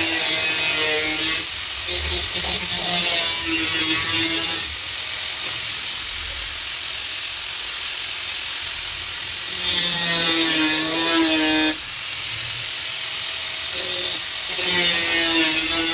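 Angle grinder cutting sheet steel: a continuous high grinding hiss, with the motor's whine dipping and rising as the disc bites. It grinds harder in passes at the start, about ten seconds in, and near the end.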